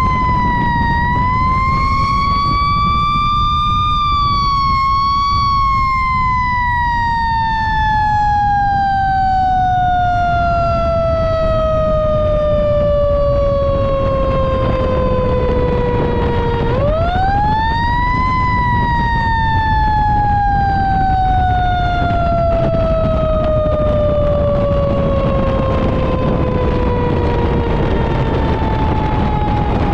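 A fire engine's mechanical siren winding down slowly from a high whine, spun back up once just past halfway, then winding down again, over the steady low rumble of the truck's engine and road noise.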